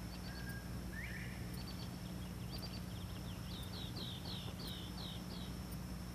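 Birds calling in an open field: scattered short chirps, then a quick run of about seven descending notes, over a steady low hum.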